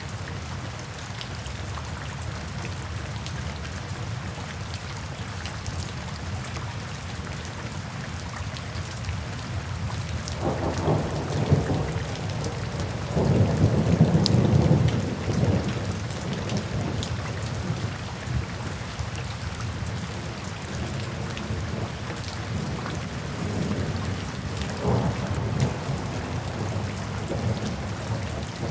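Steady rain falling, with rolling thunder rumbling about ten seconds in, loudest a few seconds later, and a weaker rumble near the end.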